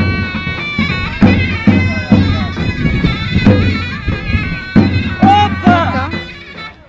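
Turkish folk dance music: a shrill, reedy wind instrument playing a melody over steady drum beats, fading near the end.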